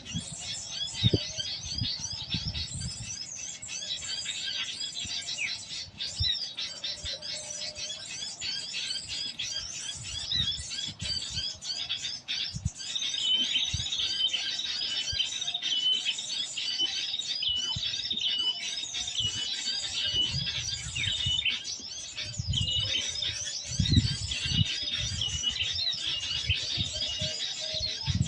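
Birdsong of rapid high chirps and trills, with a call note repeated about twice a second through the middle, played as a recorded lure to attract wild birds to the traps. A few low thumps come in near the end.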